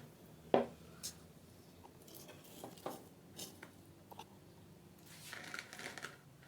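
Kitchen handling sounds as ground corn-biscuit crumbs go into cake batter: scattered soft taps and rustles, with one sharper tap about half a second in and a short rustling patch near the end.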